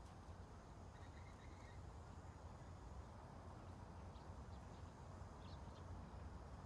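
Faint outdoor ambience: a steady low rumble under a soft even hiss, with a few faint high chirps in the second half.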